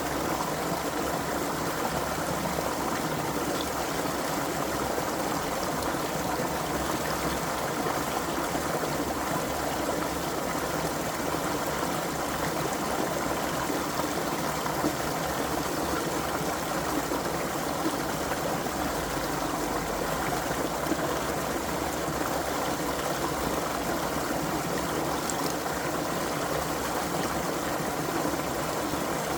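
Small creek running over stones, a steady rushing and trickling of water.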